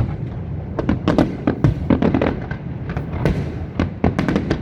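Fireworks display: a rapid, irregular barrage of sharp bangs and crackles, several a second, over a continuous low rumble.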